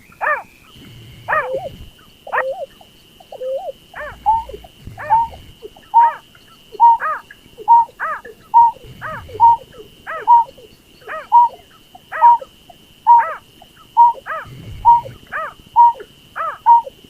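Lure recording of berkik (snipe) calls: short sharp calls with a quick downward sweep, sparse at first, then repeating steadily about twice a second, over a steady thin high tone.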